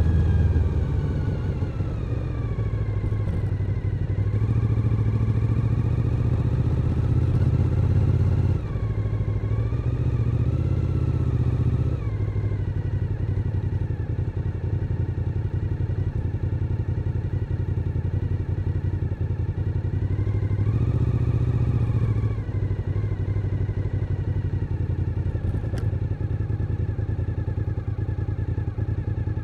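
Suzuki SV1000N's 996 cc V-twin engine under way, its pitch rising under throttle and dropping back several times, with sudden drops about 8, 12 and 22 seconds in as the throttle is shut or a gear is changed. In the last third it runs steadily at lower revs.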